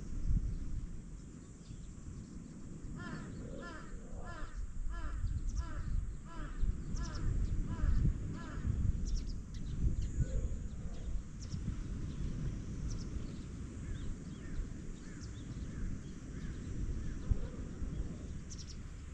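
Wind rumbling on the microphone over the wash of waves. A bird calls a run of about ten short, evenly repeated notes, roughly two a second, from about three seconds in, with a few fainter calls later.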